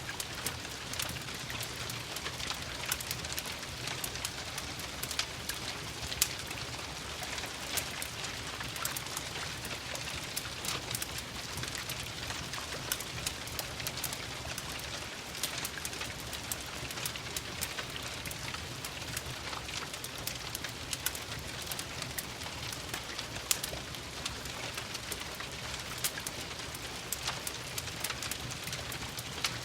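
Steady rain tapping against windows, mixed with a crackling wood fire: an even hiss dotted with frequent sharp pops and clicks.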